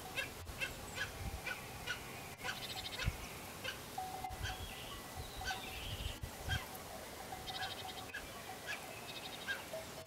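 Birds calling: short calls repeating about twice a second, with a few brief rattling trills, around three seconds in and near the end.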